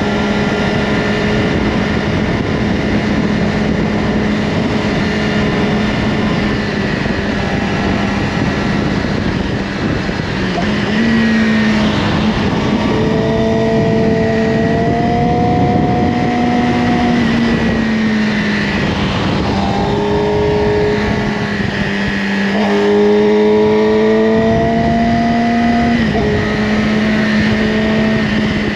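Yamaha R6's inline-four engine through an Akrapovic slip-on exhaust, heard from the rider's seat over wind noise. It holds a steady note for the first ten seconds or so, then rises and falls in pitch several times as the throttle opens and closes.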